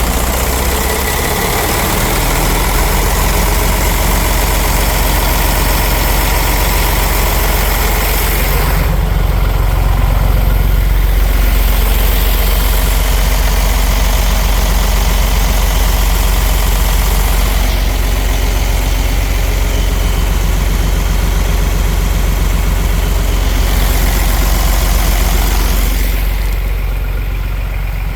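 Mercedes MBE 460 diesel truck engine idling steadily on a run test, just after starting; it grows a little louder for a long stretch in the middle and settles back near the end.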